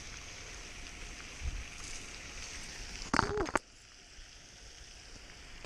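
Steady rush of splashing water from a pond fountain. A brief voice sound comes about three seconds in, then the water noise drops away sharply.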